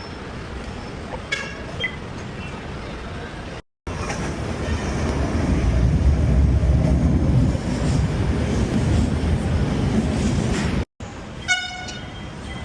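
Light-rail train passing, a low rumble that builds to its loudest midway and eases off, between stretches of street traffic with a short vehicle horn toot before and after.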